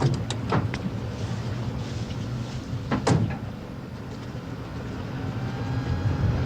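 Low, steady engine rumble with a few sharp clunks: a quick cluster in the first second and a double knock about three seconds in.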